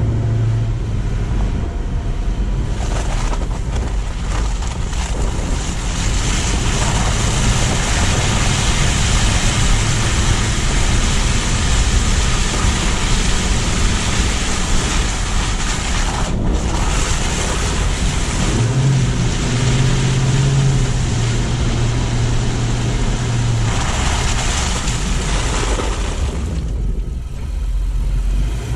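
A car driving on roads after a snowstorm: steady, loud tyre hiss and wind on the microphone over a low engine hum. The hiss drops out for a moment about halfway through and eases briefly near the end.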